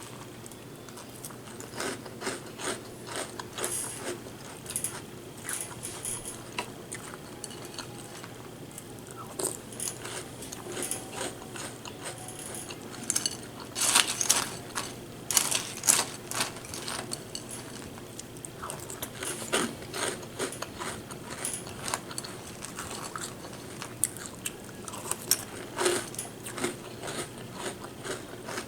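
A person chewing and crunching birthday cake cereal close to the microphone: irregular crisp crunches and clicks, loudest in a cluster about halfway through.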